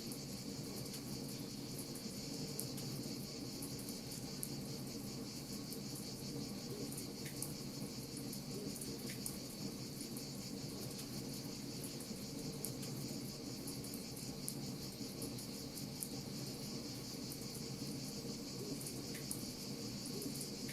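Crackling wood fire, its small sharp pops scattered irregularly over a steady high chirring and a low steady rush.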